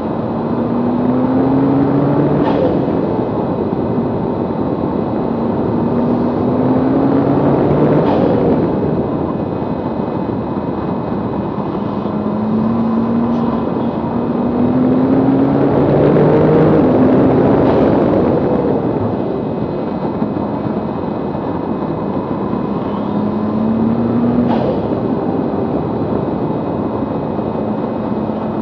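Tuned Nissan GT-R (575 PS) twin-turbo V6 at full throttle on track. Its pitch climbs steadily and drops back at each upshift, several times over. Underneath runs a heavy rush of wind and tyre noise from a camera mounted low on the outside of the car.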